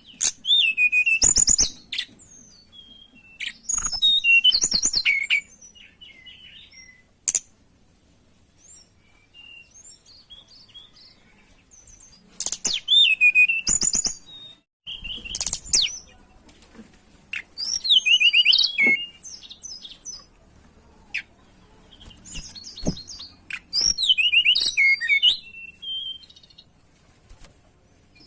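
Tledekan gunung songbird singing in loud bursts of high, quick, warbling whistled phrases with trills, each lasting one to two seconds and repeated every few seconds with quiet gaps between. A few short sharp clicks come between the phrases.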